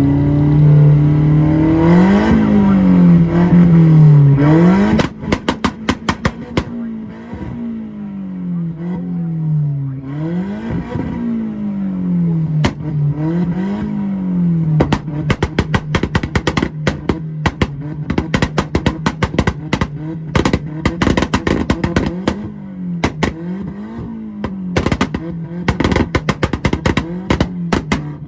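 Tuned Volkswagen engine on a two-step rev limiter. It is held loud at high revs for about five seconds. Then the revs swing up and down repeatedly while the limiter fires sharp pops and bangs, which come in rapid volleys through the second half.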